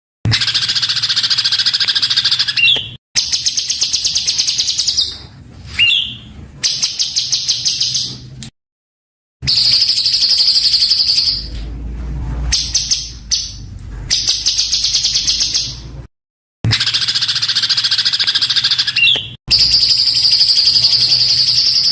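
Songbird singing a masteran of harsh, very rapid and tightly packed trills ('tembakan kasar', rough shots), high-pitched and continuous within each phrase. The phrases are broken by abrupt silent gaps, a longer one about eight seconds in and another about sixteen seconds in.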